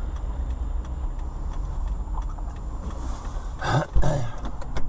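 Steady low rumble of a car's engine and road noise inside the cabin, picked up by a dashcam. A short noisy sound comes about four seconds in.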